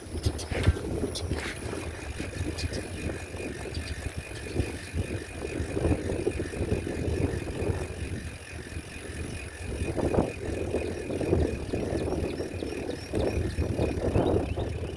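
Riding a bicycle: tyres rumbling over the ground and the frame rattling, with wind buffeting the microphone and small clicks and knocks throughout.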